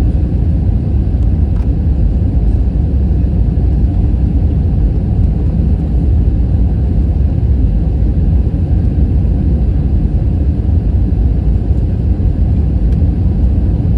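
Steady low rumble of an Airbus A321 heard from inside the passenger cabin: engine and airflow noise, unchanging throughout.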